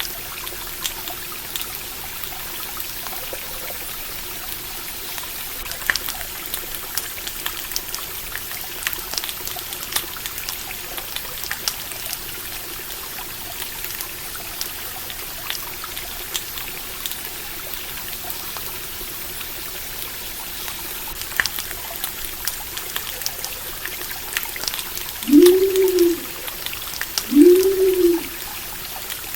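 Stream water trickling steadily, dotted with many small sharp crackles. Near the end come two low hoots about two seconds apart, each rising and then falling in pitch.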